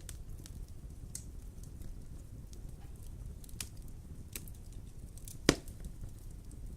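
Wood fire burning in a fireplace: a steady low noise of the flames with scattered sharp crackles, and one much louder pop about five and a half seconds in.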